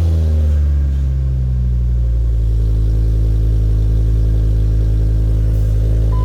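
Ford Focus ST engine idling just after starting, its idle speed falling and settling over the first couple of seconds, then running steadily. A short electronic beep sounds near the end.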